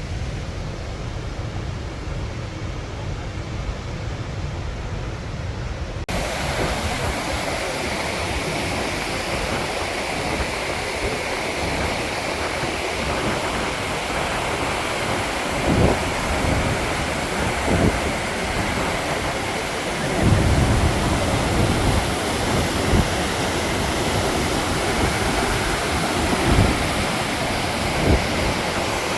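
Steady rushing noise of the Krimml Waterfalls' falling water. It turns abruptly brighter about six seconds in, and occasional low thumps hit the microphone in the second half.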